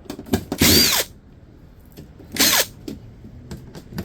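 Power drill run in two short bursts, each winding down in pitch as the trigger is released, with small clicks in between. This is the sound of screws being driven out while a dehumidifier is taken apart for scrap.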